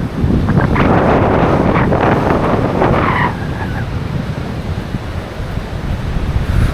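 Strong wind buffeting the microphone, with sea surf behind it. A louder rush of surf swells up about half a second in and eases off after about three seconds.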